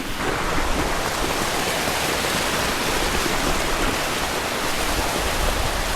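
Steady rush of water from a waterfall pouring down over rocks into a pool.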